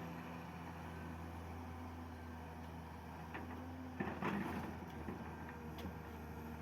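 Heavy machinery's diesel engine running steadily, with a short clatter about four seconds in.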